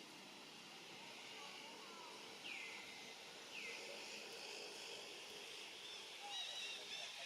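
Faint outdoor background with birds calling: two short calls that sweep down in pitch, then a quick run of repeated high chirps near the end.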